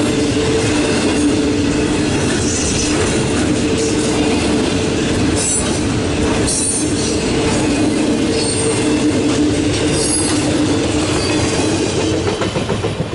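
Double-stack intermodal freight train's well cars rolling past at close range: steady wheel and rail noise with light clatter and a held tone over it. Near the end the last car goes by and the sound begins to fall away.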